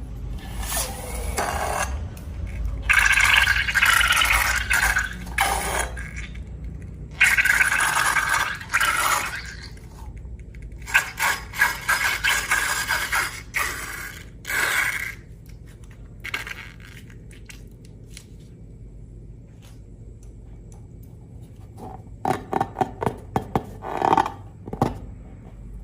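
Slime being worked by hand: scraping, crackly squelching bursts, then a quick run of sharp clicks near the end.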